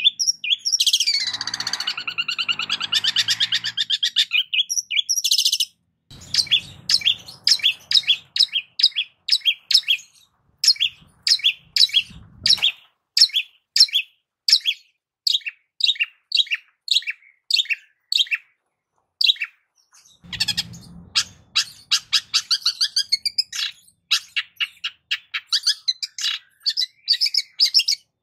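Long-tailed shrike (cendet) singing: a harsh, buzzy call, then a long run of short, sharp chattering notes at about five a second.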